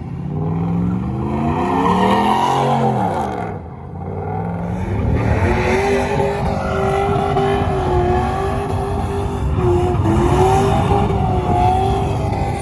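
Truck engine revving up hard for a few seconds, easing off briefly, then held at high revs with tire squeal, as in a burnout.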